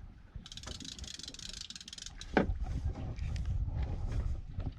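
Fishing reel clicking rapidly for about a second and a half over a low steady rumble of the boat, with a single knock about two and a half seconds in.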